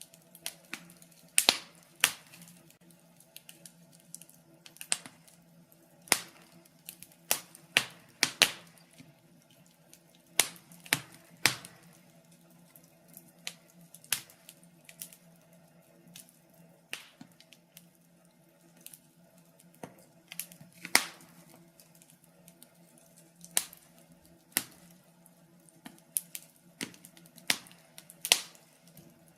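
Wood fire of burning logs crackling, with sharp irregular pops coming one to three at a time every second or two, over a faint steady low hum.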